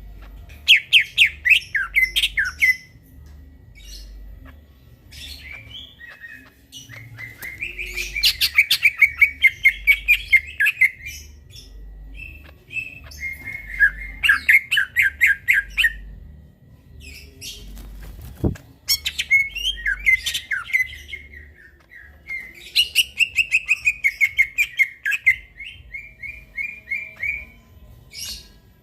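Cucak ijo (green leafbird) singing in bouts: about six loud phrases of rapid, chattering notes, each lasting one to four seconds, with short pauses between them. A single sharp click comes about two-thirds of the way through.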